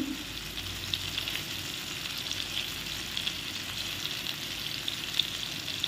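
Boneless chicken pieces, already cooked through, sizzling in shallow oil in a nonstick frying pan: a steady frying hiss with small scattered crackles and pops.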